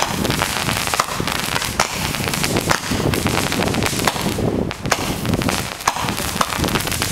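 Fireworks going off: a dense, continuous crackle of many sharp, irregular bangs.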